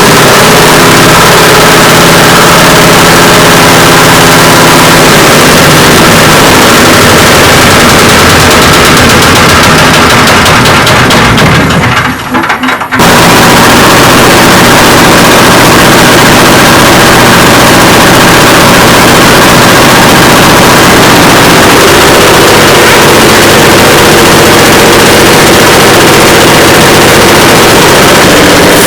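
Air impact wrench hammering on truck wheel nuts, a loud, continuous rapid rattle. It breaks off briefly about twelve seconds in, then resumes.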